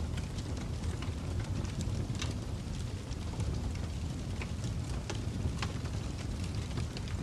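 Fire crackling: a steady low rumble of flames with irregular sharp pops and snaps scattered through it.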